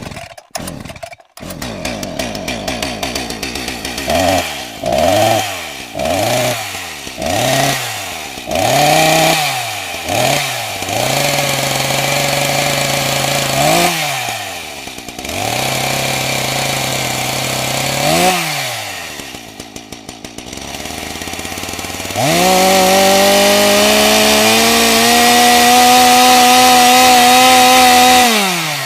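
Small petrol chainsaw engine: a few clicks at the start, then the throttle blipped in quick revs about once a second, settling into steady running with occasional single revs. From about two-thirds through it is held at a steady high speed, then cuts off abruptly at the end.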